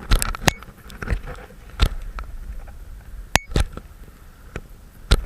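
A handful of irregular sharp knocks and clicks, about seven spread unevenly, over a faint low rumble.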